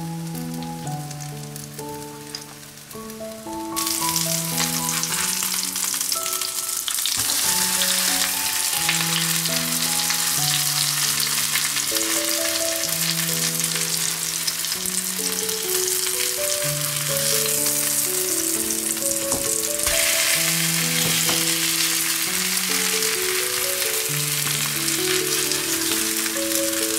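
Battered meat cutlets sizzling in hot oil in a frying pan, a dense crackling hiss that grows much louder about four seconds in. A slow melody of held notes plays underneath throughout.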